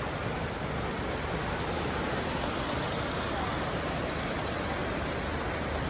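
Steady rushing water, an even hiss with no change in level.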